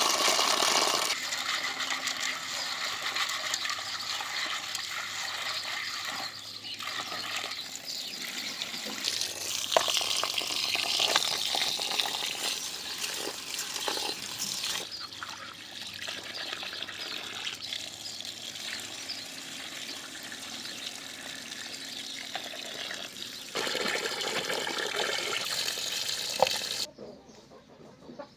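Running water splashing and pouring, with a few abrupt changes in level and a sudden drop to a much quieter sound near the end.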